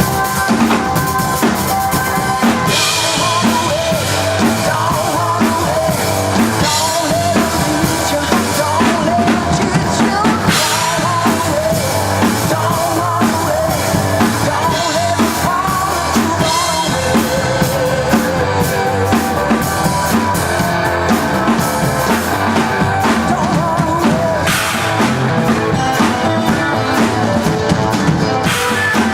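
Rock band playing: a full drum kit with bass drum and snare keeps a steady beat under a wavering lead melody line.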